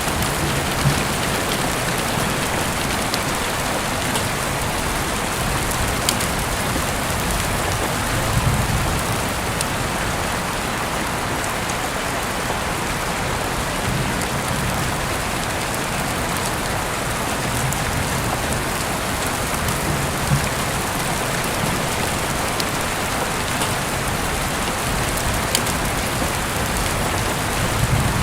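Heavy rain falling in a steady, dense hiss, heard through an open window, with an occasional sharper drop tapping close by.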